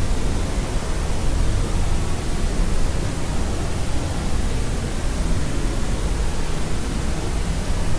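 Steady, unchanging synthetic noise for sleep, heavier in the low end like pink noise, with no tones or events.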